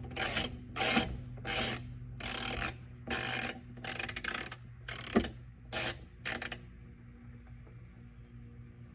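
A small 9/32 ratcheting wrench backing a tiny nut off a trunk-lid stud: a run of about ten short rasping strokes, a little under two a second. The strokes stop about six and a half seconds in.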